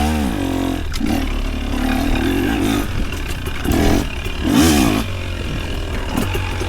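Engine of an off-road vehicle running under load, revved up and down in short throttle blips twice near the middle, with clatter and scraping over rough ground.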